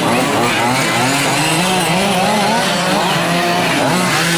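Several 5th-scale gas RC trucks' small two-stroke engines revving up and falling back as they race, several pitches rising and falling over one another.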